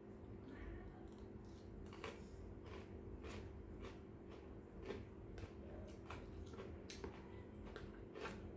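Faint, irregular clicks and taps of someone eating from a boxed meal, with a low steady hum underneath.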